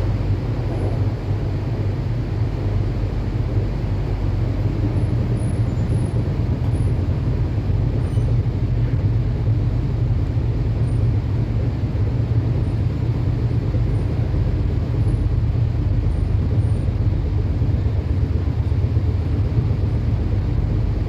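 A Sydney Metro driverless train running, heard from on board as a steady low rumble that neither builds nor fades.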